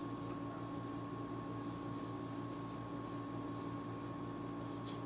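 Faint, irregular soft swishes of a small brush passed slowly over a PS3 motherboard to dust it, over a steady low electrical hum.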